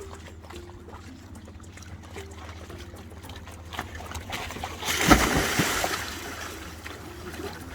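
Water trickling and lapping over a steady low hum, then a loud splash about five seconds in that washes away over a couple of seconds.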